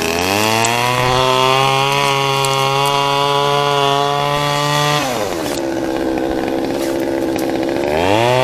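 Chainsaw engine revving up and held at high speed, dropping back to idle about five seconds in, then revving up again near the end.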